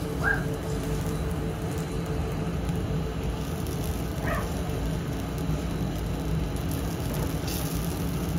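Curry masala sizzling in a pan on a commercial gas range as it is stirred with a silicone spatula, over a steady low hum, with two short squeaks about a quarter second and four seconds in.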